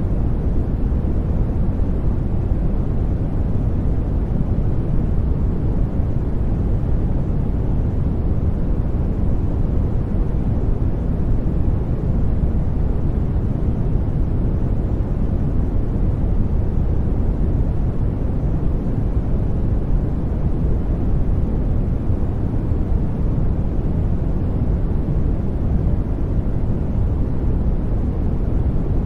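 Steady sleep noise track: a deep, even hiss with most of its weight low down and thinning out toward the top, unchanging throughout.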